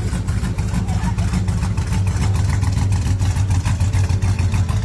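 A car engine running steadily with a deep, even pulsing rumble.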